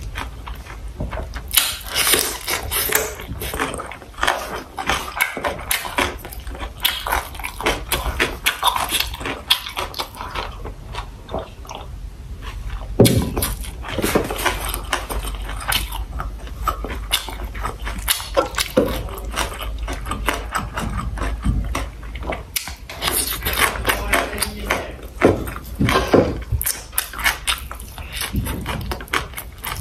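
Close-miked eating sounds: a person chewing and biting sausage with rice, a dense run of small wet clicks and crackles, with a few louder bites.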